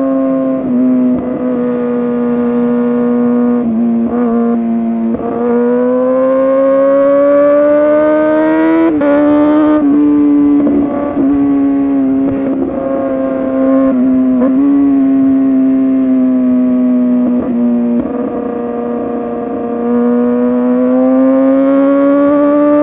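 Kawasaki ZX-6R 636's inline-four with an SC-Project exhaust, ridden hard: the note climbs under throttle, drops sharply at a gear change about nine seconds in, dips several more times and climbs again near the end.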